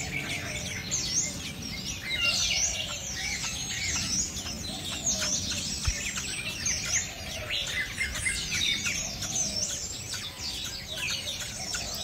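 Birds chirping continuously in a dense run of high, quick chirps, many of them sweeping downward.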